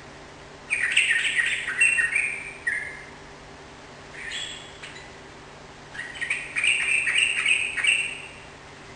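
Yellow-vented bulbul (trucukan) singing loudly: two bubbly phrases of quick liquid notes, with a short softer call between them.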